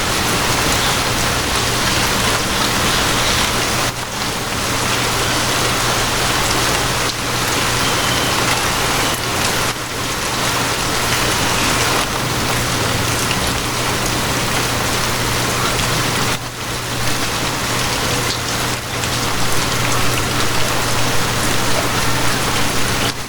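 Steady rain drumming on a surface, with a low steady hum from a moving train running underneath it.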